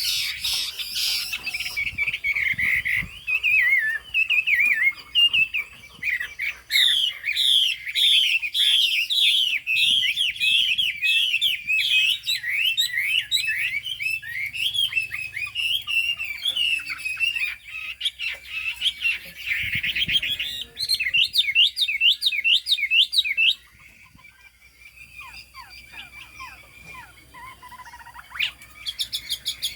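Chinese hwamei singing a long, fast song of quick notes sweeping up and down, dropping to softer phrases for a few seconds near the end before turning loud again.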